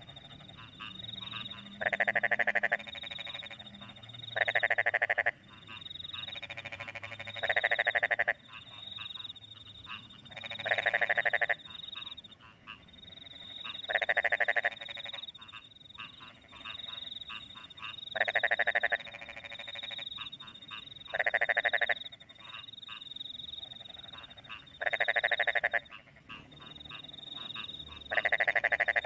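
Rice-field frogs croaking after rain: a loud, rapidly pulsed croak about a second long repeats every three seconds or so, about nine times. Under it run a steady high chirping of crickets and quieter frog calls.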